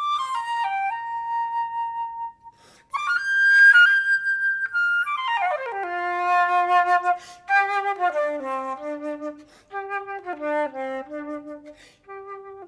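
Solo flute playing: a long held note, a brief break, a held high note with breath noise in the tone, then a quick falling run into a string of shorter notes in the low register.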